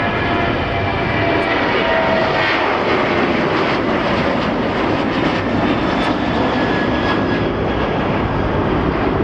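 Jet airliner engines, a loud steady rush of noise with faint whining tones in the first few seconds.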